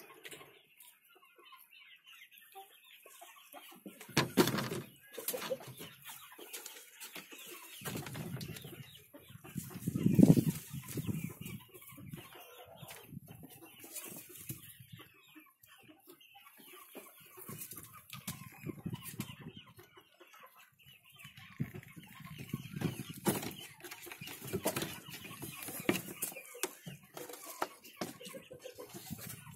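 Hens clucking on and off, with a few louder low bumps about four and ten seconds in.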